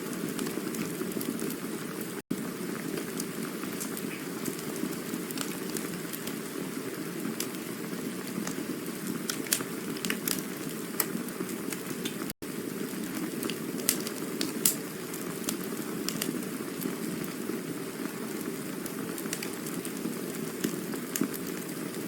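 Campfire burning: a steady low rushing hiss with scattered sharp crackles and pops. The sound cuts out for an instant twice.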